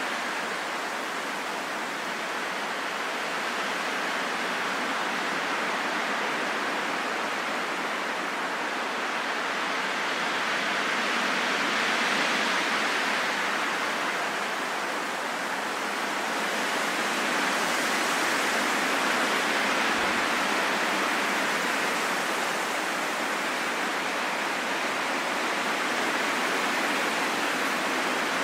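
Wind blowing as a steady rushing noise, swelling and easing in slow gusts.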